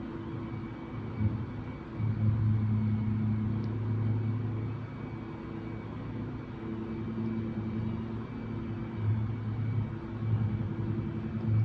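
Low-pitched droning hum of construction work heard through the apartment's walls and floor, swelling into a louder stretch about two seconds in and into several shorter surges near the end.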